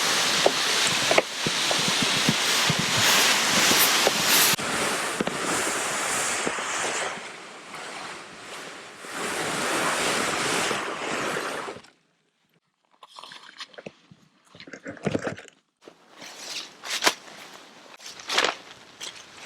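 A loud, steady rush of storm wind with small scattered ticks, like sleet striking, that cuts off suddenly about twelve seconds in. Then a series of irregular crunches and rustles in snow with short quiet gaps between them.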